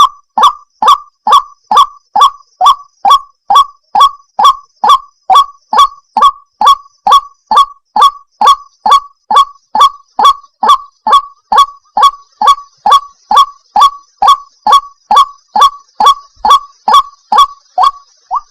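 White-breasted waterhen (ruak-ruak) calling, a fast, even series of short, loud 'wak' notes, about two and a half a second, each dropping quickly in pitch. It is a recorded lure call used to draw waterhens in.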